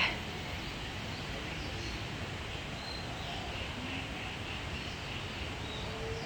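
Birds chirping faintly over a steady hiss of outdoor background noise, with a few short chirps scattered through.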